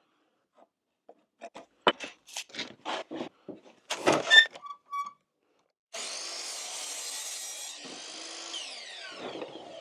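Sheet wood handled with a run of short knocks and clicks, two short beeps, then a power saw cutting wood from about six seconds in and winding down near the end.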